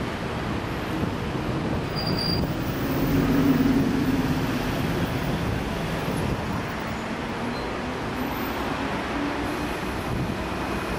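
Berlin S-Bahn electric train running along the tracks as it moves away: a steady rolling rumble that swells about three to four seconds in, then settles.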